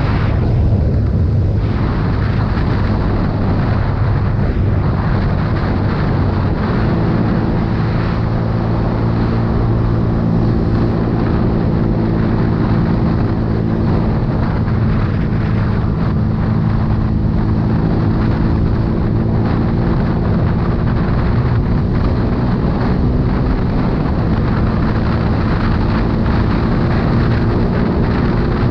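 CFMoto 250CL-X's single-cylinder engine running under way, mixed with heavy wind noise on the microphone. The engine note shifts in pitch about six seconds in, then holds steady, rising slightly near the end.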